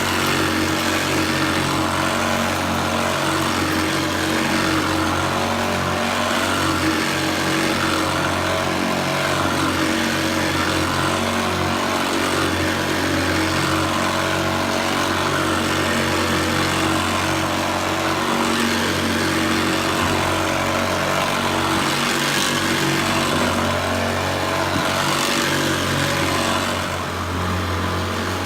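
Hoover Senior Ranger U4002 upright vacuum cleaner running steadily on carpet: the motor's hum and the whirr of the beater-bar agitator, dipping slightly near the end.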